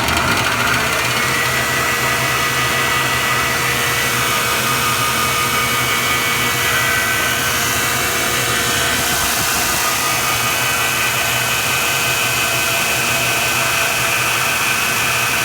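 Burr King Model 760 bench-top grinder with its Baldor electric motor running free with no work on it, reaching full speed within the first second and then holding a steady whine. It runs smoothly, a sign of a sound motor.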